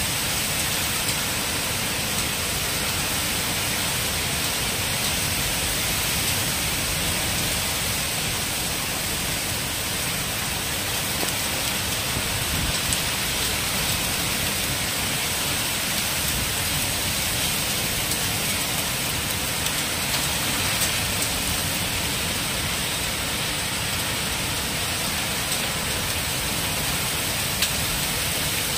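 Heavy rain pouring down in a violent windstorm, a steady rushing hiss with no letup.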